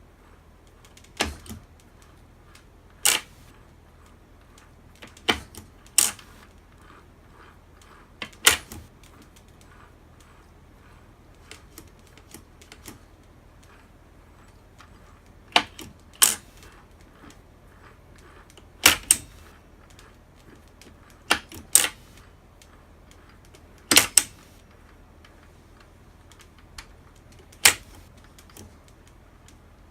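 Sharp metallic clicks and knocks of tools and engine parts being handled on a workbench, about a dozen, irregularly spaced and often in quick pairs, over a faint steady hum.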